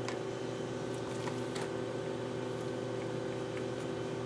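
A steady low machine hum with a few faint light clicks.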